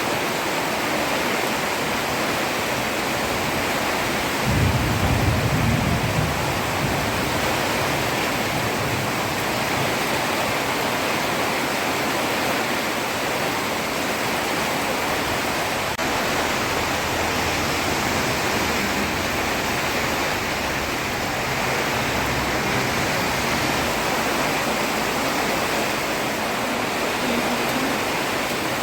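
Heavy rain falling on a road surface, a steady even hiss. About five seconds in, a brief low rumble rises over it for a second or two.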